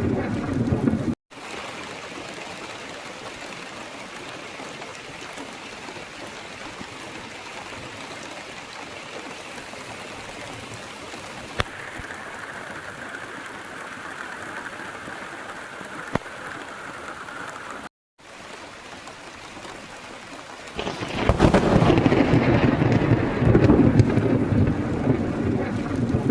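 Steady rain falling, with thunder rumbling loudly at the start and rolling in again about 21 seconds in until the end. Two brief dead gaps break the sound.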